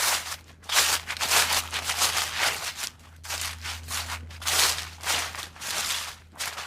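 A run of irregular crunching noises, about two a second, over a low steady hum.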